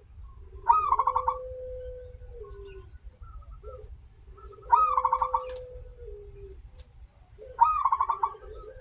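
Zebra dove (perkutut) cooing: three phrases about four seconds apart. Each opens with a loud, sharp high note that breaks into a quick stutter, over a lower drawn-out coo that steps down in pitch at its end.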